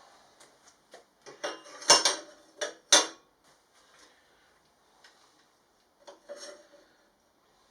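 Metal parts handled on a workbench: short scrapes and clattering knocks, the two loudest about two and three seconds in, and another short clatter near the end.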